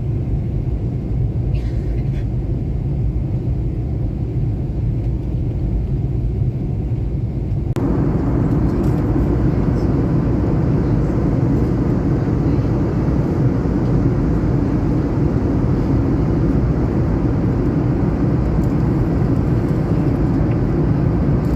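Steady rumble of an airliner heard from inside the cabin, engine and air noise. It turns suddenly louder and fuller about eight seconds in, then holds steady.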